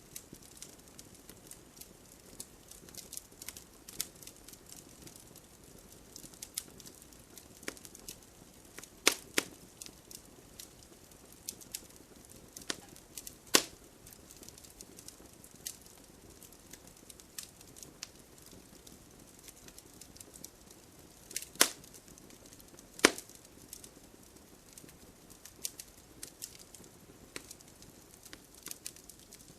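Wood fire crackling: irregular sharp snaps and pops of burning wood over a soft hiss, with a few much louder pops scattered through.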